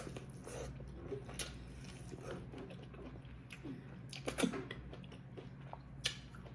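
Close-miked chewing and mouth sounds of a person eating seafood boil, with scattered small clicks and smacks and a louder one about four and a half seconds in.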